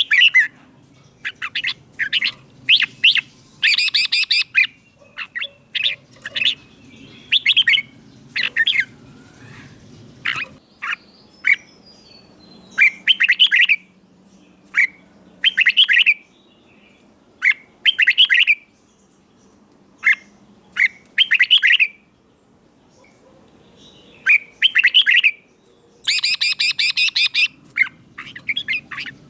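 Red-whiskered bulbul singing a string of short, quick phrases separated by brief pauses, some phrases harsh and buzzy. This is the kind of song used to train young caged bulbuls or to rouse them into singing.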